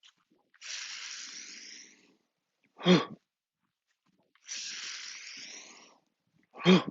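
A man breathing in with a long, audible hiss, then letting out a short, loud voiced "hoo" with a falling pitch on the exhale, twice: the qigong earth sound made as the body drops.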